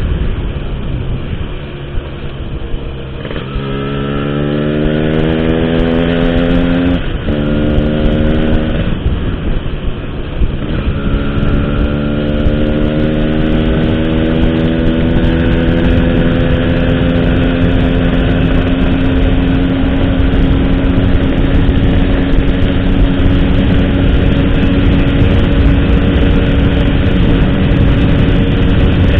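135cc motorcycle engine breathing through an Altech C17 aftermarket exhaust, pulling up through the gears with two rises in pitch broken by sharp drops at the shifts, then running steadily at cruising speed with the pitch creeping slowly upward.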